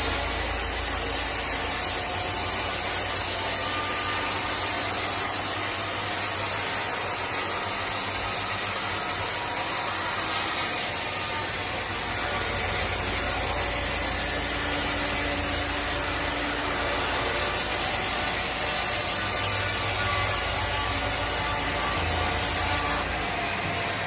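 Sawmill machinery running steadily, with a saw cutting through wood.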